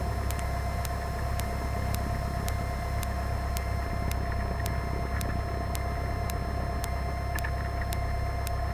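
Cessna 172's four-cylinder engine idling, heard as a steady low hum in the cockpit, with a steady whine and faint regular clicks about twice a second.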